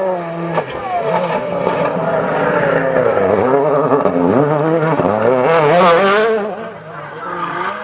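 World Rally Car's 1.6-litre turbocharged four-cylinder engine revving up and down through the gears as the car drives past, loudest about six seconds in and then falling away.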